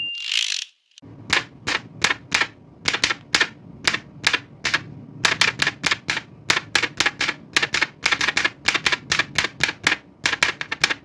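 Old manual typewriter: a brief rasping carriage return at the start, then steady typing, sharp key strikes at about three to four a second in uneven runs.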